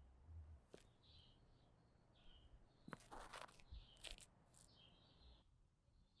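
Faint birdsong: short chirping calls repeating about once a second, with a few brief rustling or scuffing noises around the middle.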